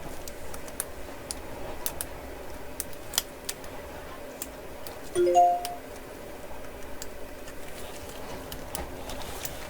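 Light clicks and taps of small-parts work on an opened laptop, with a short electronic chime of a few quickly rising notes about five seconds in, the loudest sound here.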